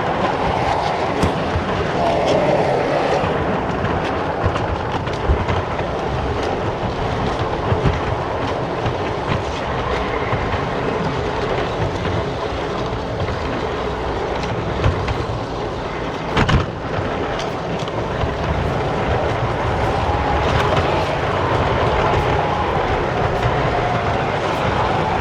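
G-scale model train running around garden railway track: a steady rumble of wheels with frequent small clicks over the rail joints, one sharper click about two-thirds through, and a faint wavering whine near the end.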